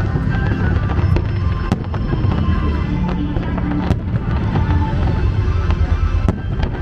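Aerial fireworks going off in a continuous low rumble of bursts, broken by a few sharp cracks, over loud accompanying music for the pyromusical display.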